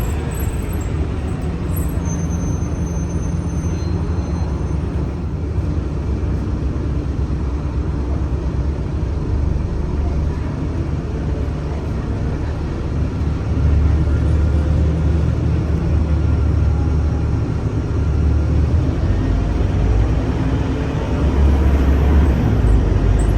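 Scania K310UA city bus's diesel engine running steadily under way, working harder and louder about halfway through, with a rising pitch near the end as the bus accelerates.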